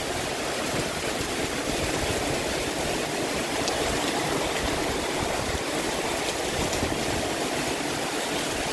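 Heavy storm rain pouring steadily, a dense even hiss of falling water.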